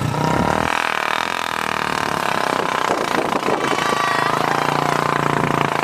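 Several motorcycle engines, among them a Royal Enfield Bullet, running hard and steady together, straining under load as they pull against each other in a tug-of-war.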